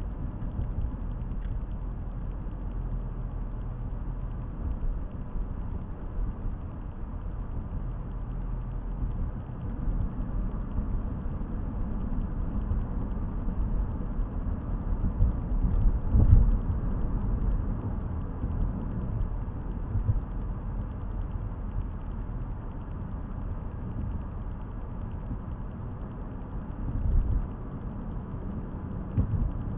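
Car on the move, heard inside the cabin through a dash camera's microphone: a steady low rumble of engine and tyre noise, swelling briefly louder about halfway through and again near the end.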